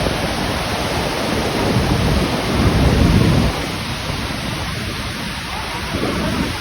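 Roar of the Iguaçu Falls: a loud, steady rush of falling water with a deep rumble that swells about two seconds in and eases a little after three and a half seconds.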